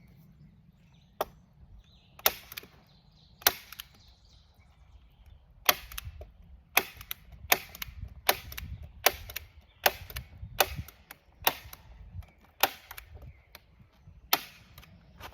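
Hand-squeezed heavy-duty staple gun firing staples through plastic sheeting into a wooden frame: about fourteen sharp snaps, a few seconds apart at first, then coming every second or less from about six seconds in.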